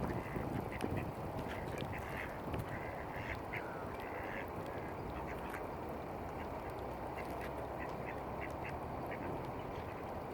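Mallard ducks quacking in a rapid series of short calls, thickest in the first half, over a steady low background rush.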